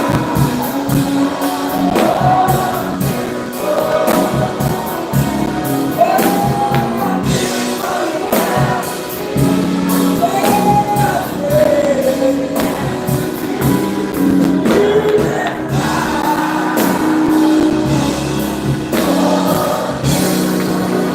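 Gospel music performed live: voices singing over a band with bass notes and a steady beat.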